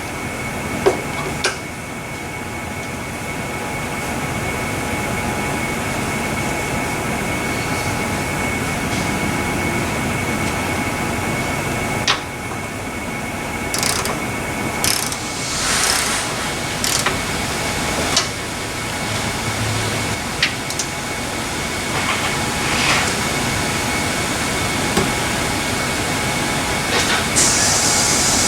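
Scattered metallic clicks and clanks of hand tools and fasteners while a car's anti-roll bar is being disconnected, over a steady workshop hum with a faint high tone.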